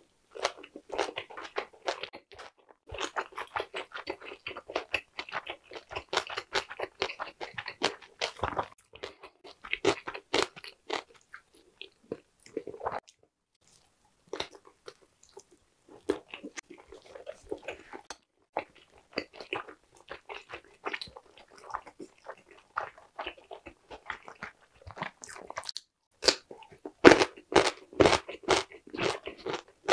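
Biting and chewing whole Korean blood sausage (sundae): a dense run of small wet mouth clicks and smacks. They stop briefly around the middle, and the bites are sharper and louder near the end.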